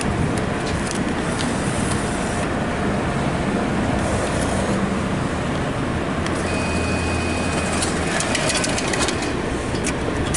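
Steady engine and traffic noise of a car idling, with a brief high steady tone about two-thirds of the way through and a few light ticks near the end.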